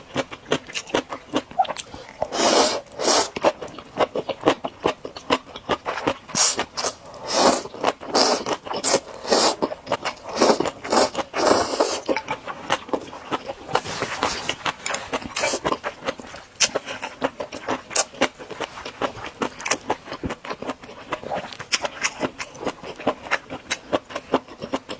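Close-miked eating of spicy noodles: wet slurps and chewing, with many short smacks and clicks.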